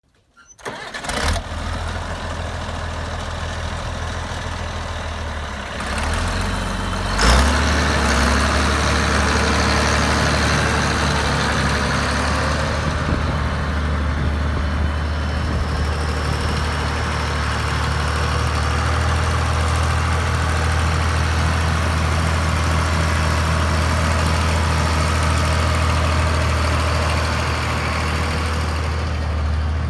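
Allis-Chalmers 7040 tractor's diesel engine running steadily. Its sound comes up in the first second. About seven seconds in there is a sharp knock, and after it the engine runs louder.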